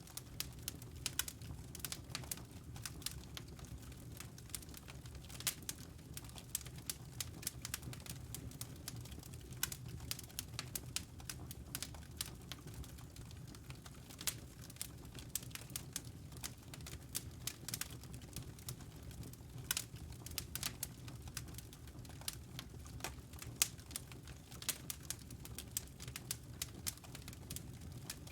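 Fire in a fireplace crackling: dense, irregular sharp pops and snaps over a steady low rumble.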